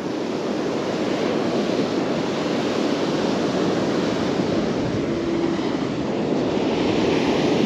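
Steady surf washing on the beach, with wind on the microphone. A brief faint steady tone sounds about five seconds in.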